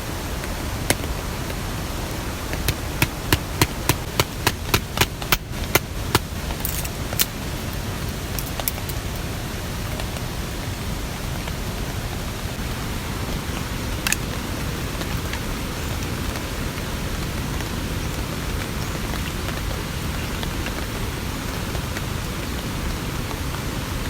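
Steady rain falling, with a quick run of about a dozen sharp taps a few seconds in and a few single taps after.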